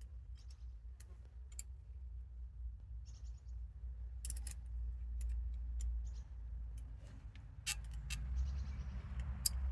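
Scattered light clicks and taps from hand work on engine parts, over a steady low hum, with a rustling noise that swells near the end.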